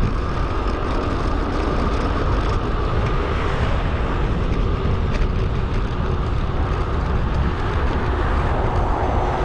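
Steady wind and rolling noise on the microphone of a camera mounted on a moving bicycle, sped up 2.5 times.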